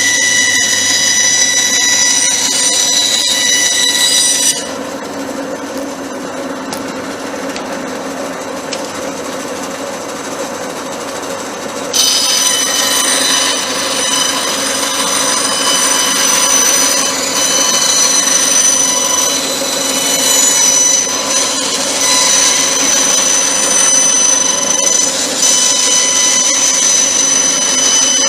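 A power tool running with a steady high whine. About four and a half seconds in the whine drops away, leaving a lower, duller running sound, then comes back suddenly about twelve seconds in.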